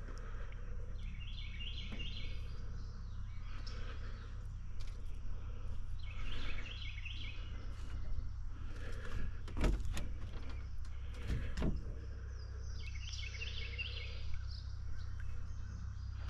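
A songbird singing in three short bouts of quick chirping notes, a few seconds apart, over a steady low rumble, with a few sharp knocks near the middle.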